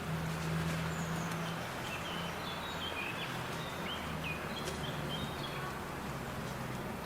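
Small garden birds give a quick series of short, high chirps from about two seconds in to about five seconds in, over a steady low hum and background noise.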